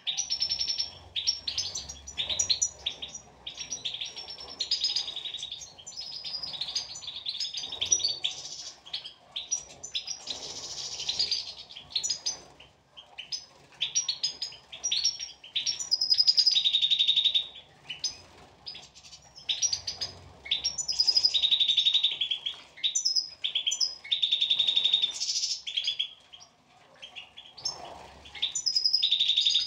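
European goldfinches singing: a continuous, rapid twittering of chirps and short buzzy trills.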